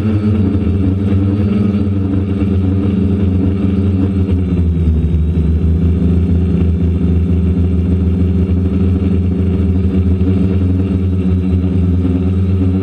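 DJI Flamewheel F450 quadcopter's electric motors and propellers humming in flight, their pitch shifting as they fight gusty wind, dipping about five seconds in. A strong low rumble lies underneath.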